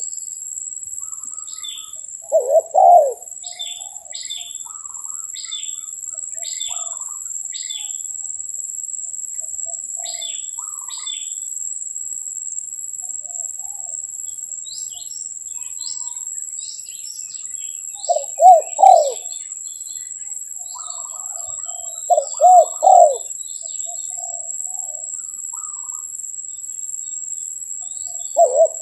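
Spotted doves cooing in short phrases of two or three low notes, four times, the loudest sound. Between the phrases a small bird gives runs of short, sharp, high chirps, about two a second, over a steady high-pitched whine.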